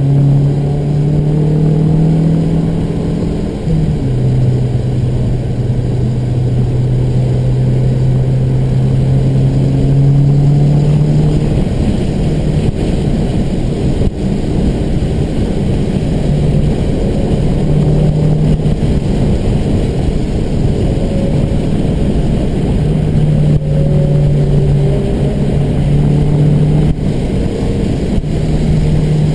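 Mazdaspeed3's turbocharged four-cylinder engine running hard, heard from inside the cabin over steady road and tyre noise on a wet track. Its pitch drops sharply about four seconds in, then the engine note comes and goes through the second half.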